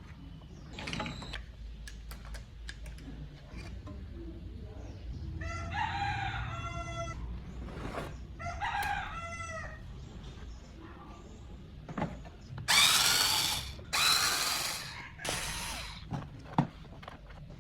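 A rooster crows twice in the background, each call about a second and a half long, among scattered small clicks and knocks of hand work. Near the end come three loud bursts of hissing noise, the loudest sounds here.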